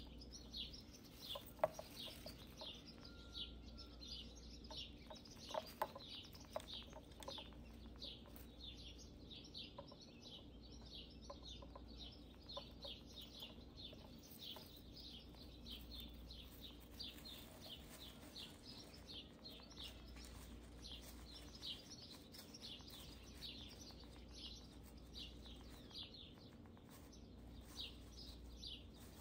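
Faint birds chirping in the background: short, high, falling chirps repeating about three times a second throughout. A few sharper clicks stand out in the first seven seconds.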